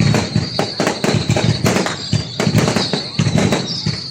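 Fireworks going off in quick, irregular succession: many sharp bangs and crackles a second, over a steady high-pitched whine.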